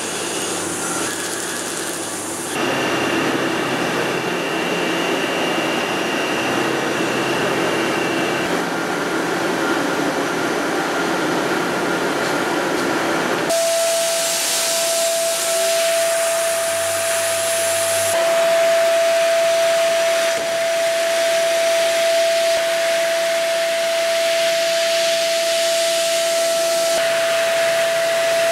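Hwacheon CUTEX-180 CNC lathe running a turning job: a steady machining hiss that changes character a few times as the operation changes. About halfway through, a strong steady whine joins it and holds to the end.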